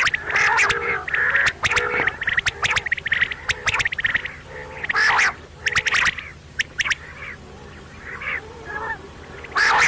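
Quail calling: groups of sharp, rapid clicking notes mixed with short chirping calls, repeated at irregular intervals with brief gaps, quieter for a couple of seconds around the middle.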